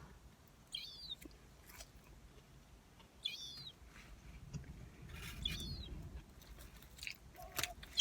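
A bird giving short, high, down-sweeping calls, repeated four times about every two and a half seconds, with a few faint chewing clicks in between.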